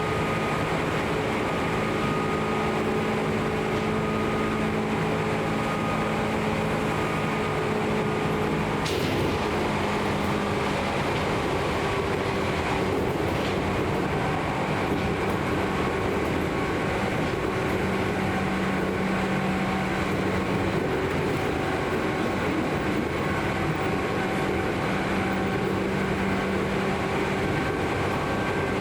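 Seibu New 2000 series field-chopper-controlled electric train running at a steady speed: continuous wheel-and-rail rumble with steady motor hum tones that shift a little in pitch, and one sharp click about nine seconds in.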